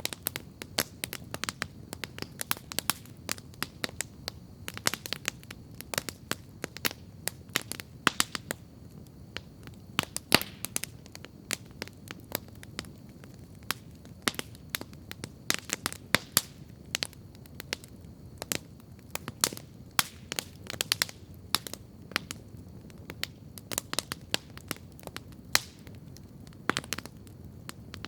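Wood campfire crackling steadily: frequent, irregular sharp pops and snaps over a steady low rush.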